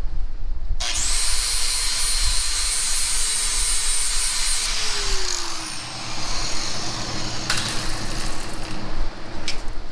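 Electric angle grinder motor starting up about a second in and running loud with a steady high whine. It winds down in pitch around the middle, and loud grinding-type noise carries on after that.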